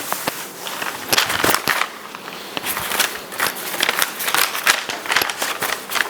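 Handwriting sounds: irregular scratchy strokes and taps of a pen on paper, several a second.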